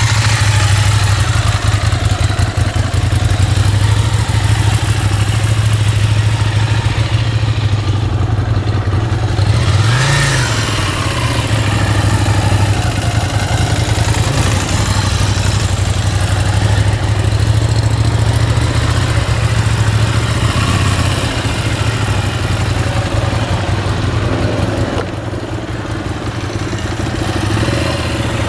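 Motorcycle engines running at low revs as the bikes are ridden slowly. About ten seconds in, one engine revs up briefly and drops back.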